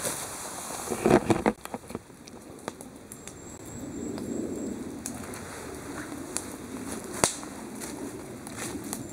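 Campfire wood crackling and popping in irregular sharp snaps, with a cluster of loud cracks about a second in and a low, steady rush of the burning fire underneath.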